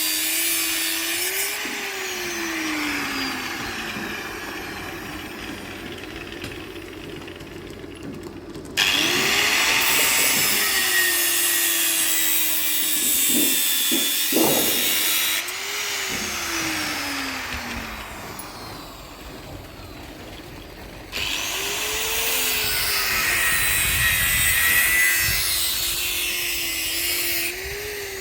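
Electric power tool working steel: its motor spins up and winds down several times over a hiss of cutting noise, with sudden jumps in loudness about nine and twenty-one seconds in.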